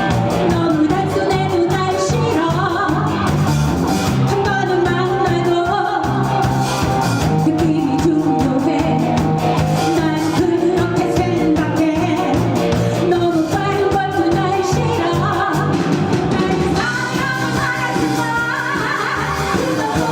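Live band playing a Korean pop-rock song with a singer over a steady beat.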